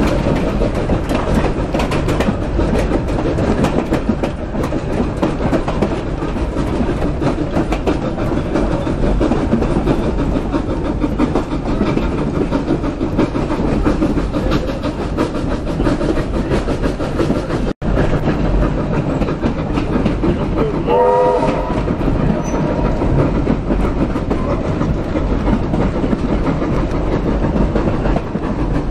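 Railway carriage running along the track, heard from aboard: a steady rumble with wheels clicking over the rail joints. A brief wavering pitched sound rises over it a little past two-thirds in.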